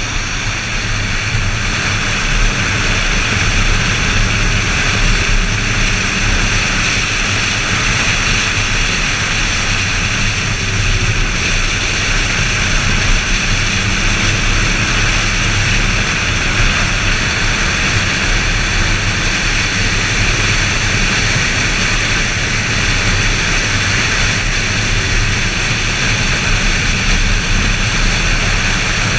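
BMW Z4 M Roadster's straight-six engine running hard at speed on track, buried in a steady roar of wind and road noise on the camera's microphone.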